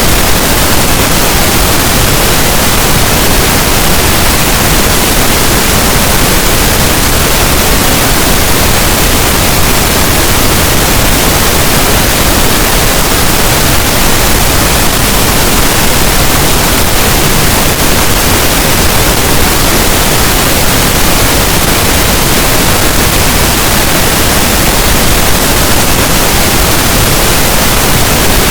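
Pink noise: a steady, unchanging hiss spread evenly across low and high pitches.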